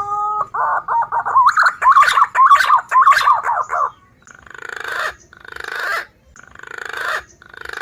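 Green pigeon (punai) calls from a bird-trapping lure recording: a rising whistled note, then a fast warbling run of whistles for about three seconds, followed by four rasping, growling notes about a second apart.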